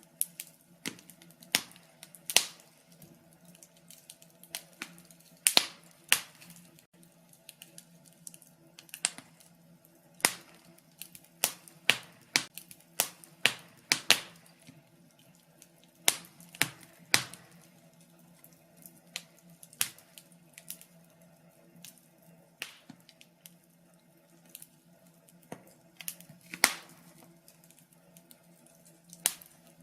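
Wood fire crackling in a fireplace: irregular sharp pops and snaps of burning logs, some louder than others, at uneven intervals over a faint steady background.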